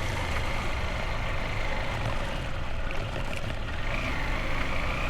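Motorbike engine running steadily under load as the bike is ridden up a steep hill, with a thin whine that rises a little about four seconds in.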